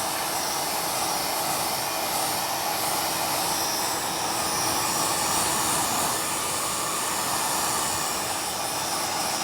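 Low-temperature terahertz hair dryer blowing steadily, its fan giving an even rush of air with a faint hum.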